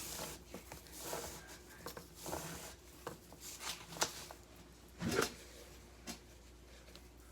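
Hand handling of craft materials: irregular rustling with a few sharp clicks, the loudest about four and five seconds in, then quieter.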